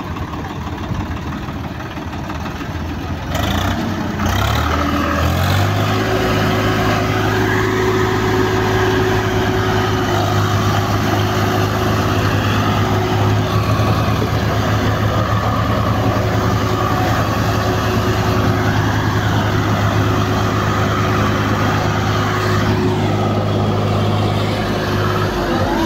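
Swaraj 855 FE tractor's diesel engine running. About three seconds in it revs up, then holds a steady, even pitch for about twenty seconds before easing off near the end.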